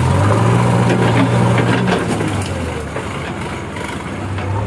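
Sonalika DI 50 tractor's diesel engine running under load with a fully loaded trolley, louder for the first two seconds or so and then easing off. A crackling, crunching noise runs over it.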